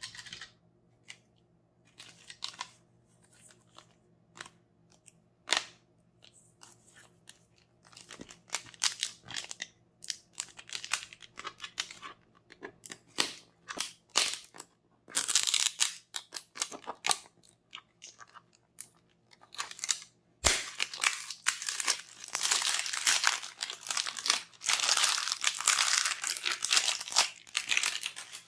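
Toy packaging being handled and torn open by hand: scattered taps and crackles at first, then dense crinkling and tearing about fifteen seconds in and again, louder and longer, after a sharp knock about twenty seconds in.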